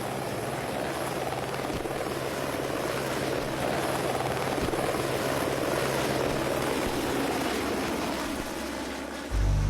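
A vehicle engine running steadily with a dense, rapidly pulsing noise. Music begins right at the end.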